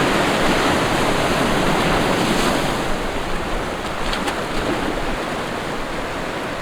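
Steady rushing water, an even noise without any tone, easing slightly after about three seconds, with a few faint clicks about four seconds in.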